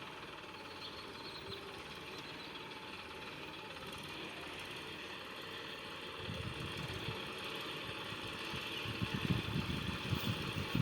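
Diesel engine of heavy farm or construction machinery running steadily, with irregular low rumbling thumps coming in about halfway through and growing stronger near the end.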